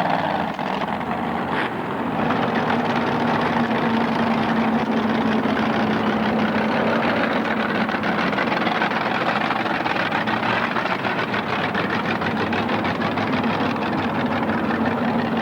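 Monster truck engine running steadily, a dense rapid rumble with a held low hum.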